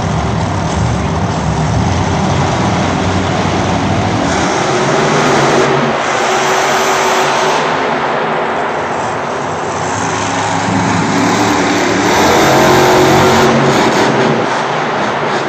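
Monster truck engine running loud and revving, its pitch rising and falling, swelling to its loudest near the end.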